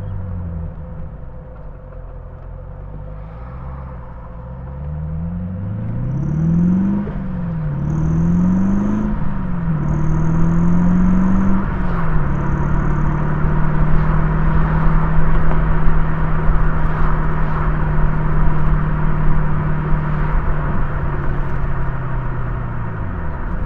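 Morgan Plus 8's Rover V8 heard from inside the car, accelerating through three quick upshifts, its pitch climbing and dropping at each change. It then holds a steady cruise before easing off near the end.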